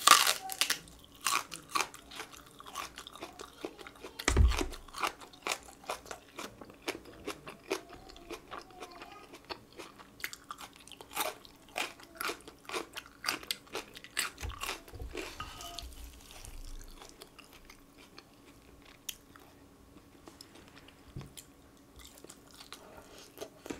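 Crunching bites and close-up chewing of a raw Korean green onion (daepa) stalk. The crunches come thick for the first dozen seconds, with one heavier crunch and low thud about four seconds in, then thin out to softer, sparser chewing.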